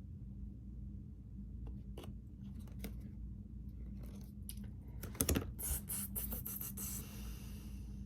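Tarot cards being handled: scattered light flicks and taps, building to a quick run of flicks about five seconds in, then a short papery slide near the end.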